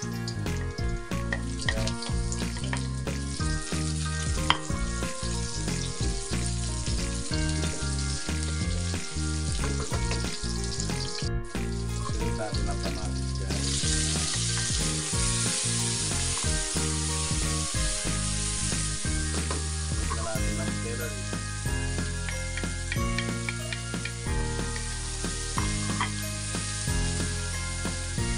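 Garlic, onion and tomato sizzling in hot oil in a wok while a wooden spatula stirs them; the sizzle grows louder and brighter about halfway through as the tomato goes in. Background music plays underneath.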